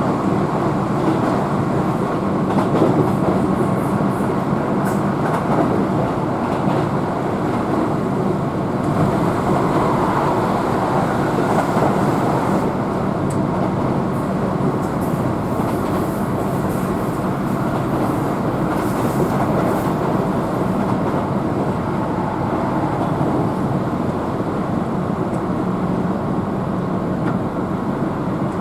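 Keihan electric train running steadily at speed, heard from inside the car: a continuous rumble of wheels on the rails with faint clicks over the track.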